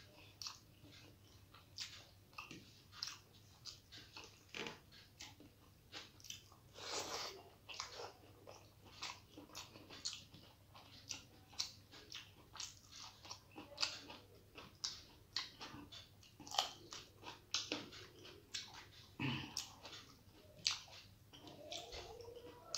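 A person chewing mouthfuls of rice and curry eaten by hand, close to the microphone: a steady run of irregular wet smacks and clicks, several a second.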